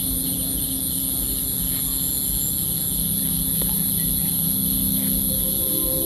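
A steady, high-pitched chorus of night insects over a constant low droning hum and rumble.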